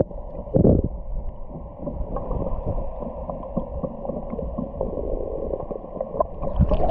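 Muffled underwater sound of a swimming pool, heard with the microphone under the surface: water churning and bubbling, with a louder surge of water just under a second in and another near the end.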